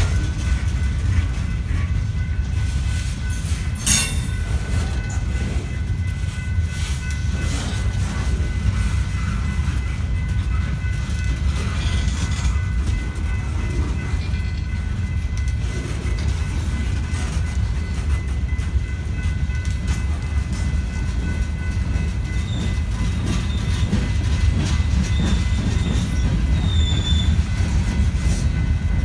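Freight cars (boxcars, then covered hoppers) rolling past close by: a steady low rumble of steel wheels on rail with a thin, steady wheel squeal over it. There is one sharp clank about four seconds in, and brief higher squeals near the end.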